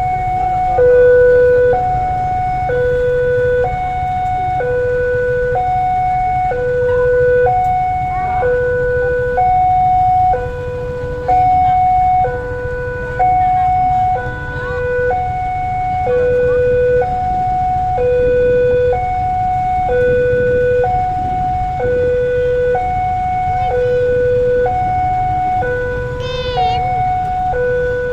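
A two-tone hi-lo siren alternating steadily between a higher and a lower pitch, each held about a second, over a constant low rumble.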